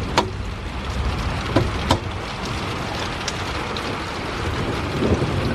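Heavy rain pouring down steadily, with a few sharp taps of drops striking something close by. Near the end, a low rumble of thunder begins to build.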